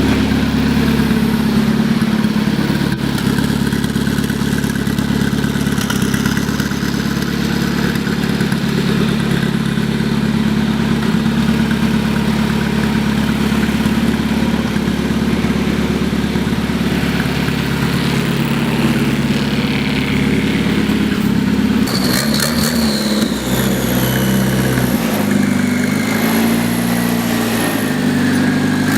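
Turbocharged Fordson tractor engine running steadily, then changing pitch up and down over the last several seconds as it is revved.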